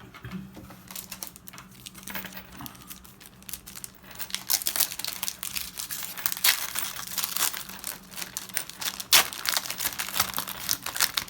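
Booster-pack wrapper crinkling and tearing as a pack of Pokémon cards is opened; the crackle grows louder and busier about four seconds in.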